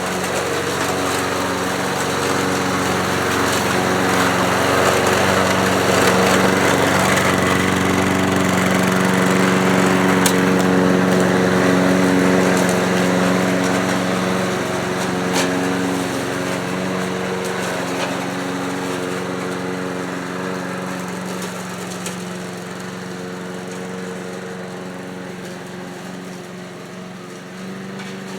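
Small engine of a 1979 Ace Hardware push mower running steadily while mowing, now firing reliably after its breaker points were cleaned. It grows louder toward the middle and fades toward the end, with a couple of sharp ticks.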